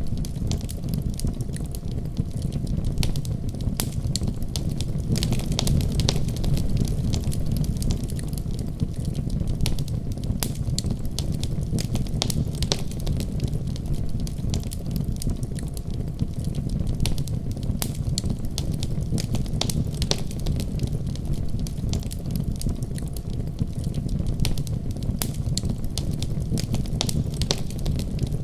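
Wood fire crackling steadily, with a low rumble of flames and many sharp, irregular pops and snaps.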